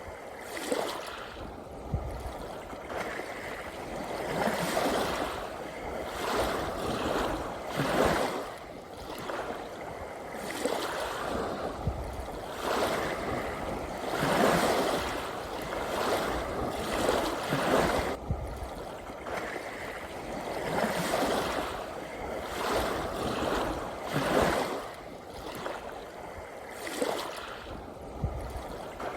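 Small ocean waves washing in and running back: a continuous rush of water that swells every two to three seconds, with an occasional low thud.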